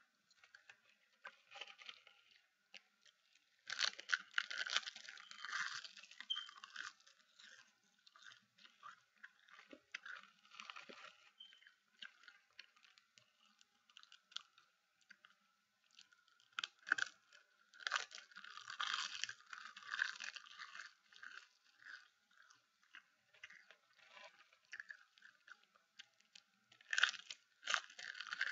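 Close-up crunching and chewing of seasoned seaweed, with loud bursts of crunching about four seconds in, again around eighteen seconds, and near the end, and quieter chewing in between.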